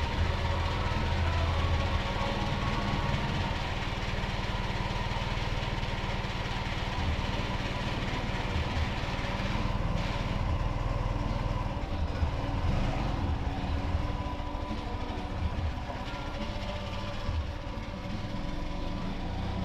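A vehicle engine running steadily, without a break.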